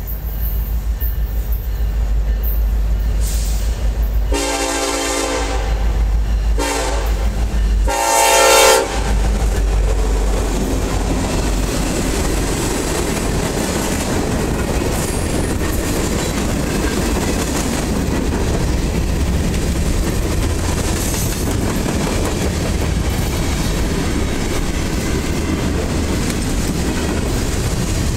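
Union Pacific SD70ACe diesel locomotive leading a freight train: a low engine rumble as it approaches, three horn blasts about four to nine seconds in, the last the loudest, then the steady rolling noise of freight cars' wheels on the rails as the train passes.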